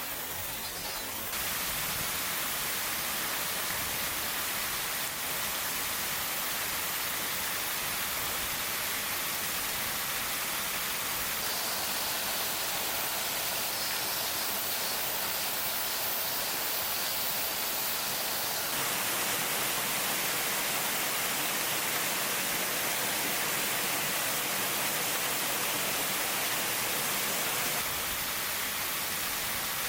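Steady rush of a waterfall, a constant hiss of falling water. Its tone shifts a little a few times.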